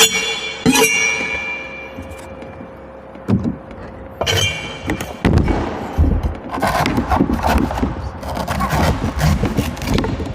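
Coconut being cut with a metal blade: sharp chops near the start and again about four seconds in, each leaving a ringing metallic tone that echoes in a large room. From about five seconds on, a rapid run of knocks and scraping as the coconut is worked.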